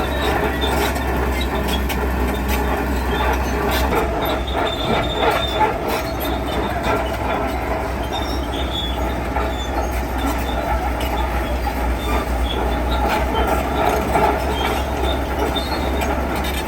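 Heavy construction machinery at work: an engine running steadily under scattered metal knocks and intermittent high squeals, typical of steel tracks and a working attachment.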